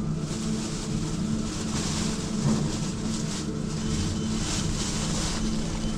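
Elizabeth line Class 345 electric train running, heard from inside the carriage: a steady hum with a constant low tone under a rushing noise that swells at the start.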